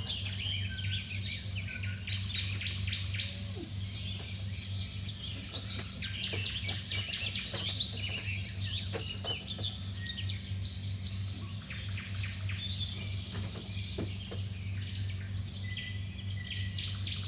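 Small birds chirping and twittering busily, many short calls overlapping, over a steady low hum.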